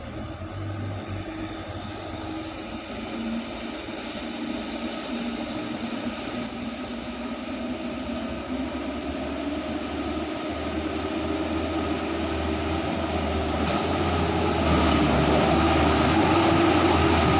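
Engine of a truck loaded with building material running steadily and slowly growing louder, with a further rise about three quarters of the way through.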